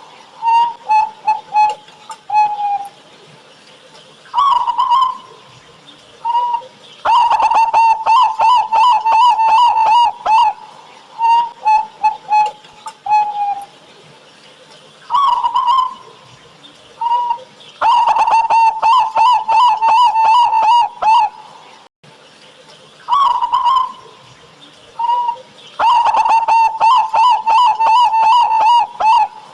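Zebra dove (perkutut) song: loud, repeated phrases of a few short coos, each leading into a long, rapid rolling trill of about three seconds. The full phrase comes three times, about every eight to ten seconds.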